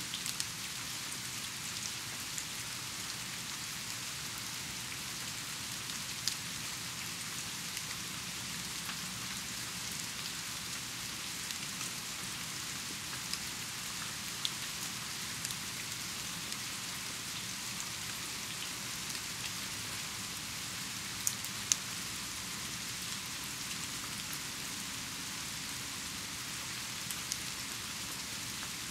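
Steady rain falling, an even hiss with a few sharper taps of single drops now and then, the strongest about two-thirds of the way through.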